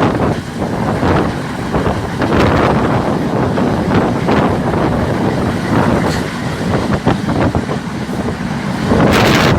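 Moving train running at speed, its noise mixed with heavy wind buffeting the microphone; a brighter, harsher surge near the end.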